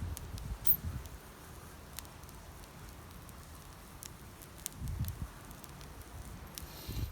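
Wood campfire crackling: sparse sharp pops and snaps over a faint hiss. A couple of soft low thuds come about five and seven seconds in.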